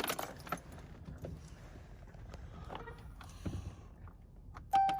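Quiet truck cab with scattered faint clicks while the key is cycled to prime the diesel fuel system after a fuel filter change; near the end the Ram's dashboard warning chime sounds twice as the key is turned on again.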